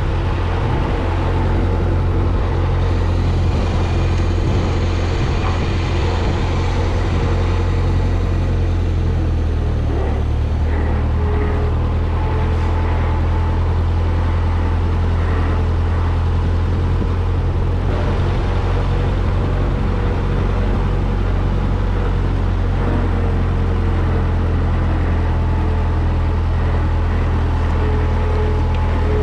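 Vintage farm tractor's engine running steadily at idle while it warms up after a cold start, its speed settling slightly lower about ten seconds in.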